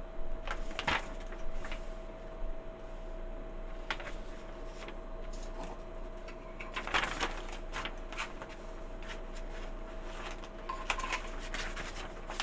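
Keurig K-Cafe milk frother running with a steady hum while it froths milk, under scattered plastic clicks and rattles from handling a loose lid part, the busiest clatter about seven seconds in.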